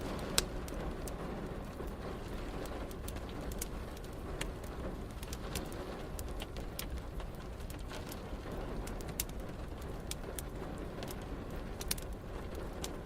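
Wood fire crackling, with irregular sharp pops and snaps and one loud pop about half a second in, over a steady hiss of rain.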